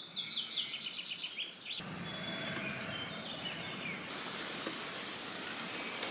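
Woodland birdsong: a songbird sings a quick run of falling notes in the first two seconds. Under it runs a steady, high-pitched insect trill, typical of a cricket.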